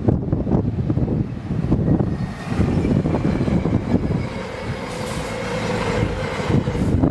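A train passing close by, rumbling with irregular wheel clatter over the rails; a faint steady whine comes in about two and a half seconds in.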